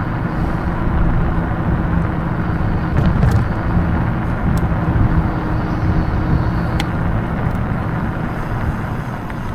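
Wind rushing over the microphone and road noise while riding an electric bike: a steady low rumble, with a few faint clicks.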